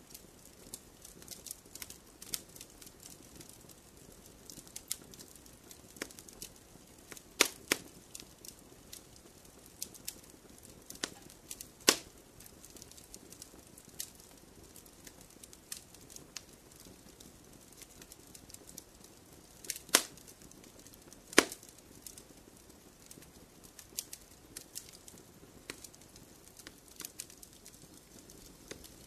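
Wood fire crackling in a fireplace: burning logs give a steady soft hiss with frequent small crackles and snaps, and several louder pops scattered through.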